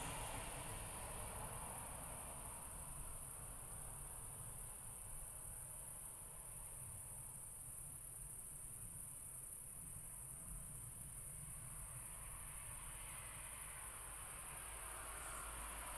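Crickets chirring in a steady, high-pitched chorus, with a faint low rumble underneath.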